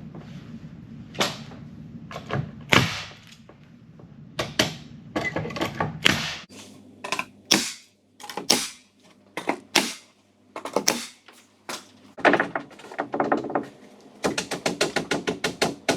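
Irregular sharp knocks and taps of a pine shiplap board being worked into place and fastened on the wall, ending in a fast run of clicks. A low background hum stops about six seconds in.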